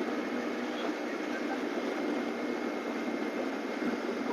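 Steady rush of wind and road noise from a moving Hero Splendor Plus motorcycle, with its small engine running underneath, unchanging throughout.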